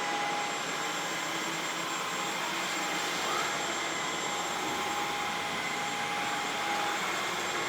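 Dyson V11 Absolute cordless stick vacuum running steadily with its large carpet floor head fitted: an even rush of airflow with a thin, high motor whine.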